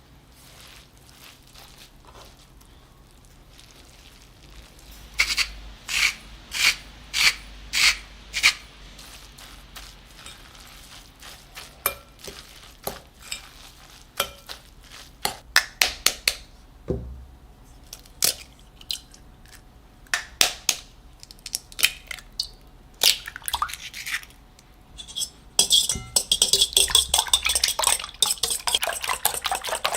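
Kitchen utensils clinking and tapping against bowls and dishes. About five seconds in come six sharp taps roughly half a second apart, then scattered taps, and near the end a fast run of clinks.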